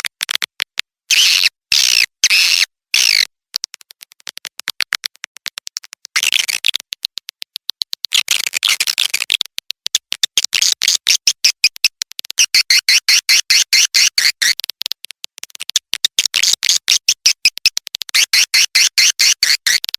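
Recorded edible-nest swiftlet calls played as a lure track: rapid trains of sharp clicks, broken by repeated bouts of high twittering chirps, including chick-response calls.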